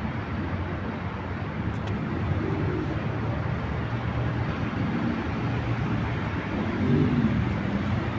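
Urban street ambience: a steady rumble of road traffic, with a slight swell near the end.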